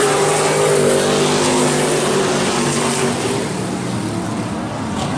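Race trucks' engines running at speed on the track, several engines overlapping with their pitch rising and falling as they pass, easing a little after about three and a half seconds.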